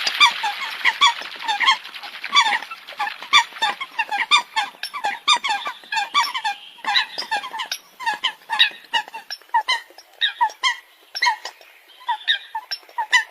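Eurasian coots calling: many short, sharp squeaky calls, several a second and overlapping as from a group of birds. A rushing hiss lies under the calls in the first second or two.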